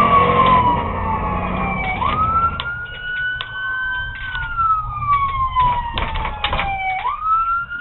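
Police car siren wailing in slow cycles: the tone sinks gradually, then jumps quickly back up, twice, over engine and road rumble with scattered clicks.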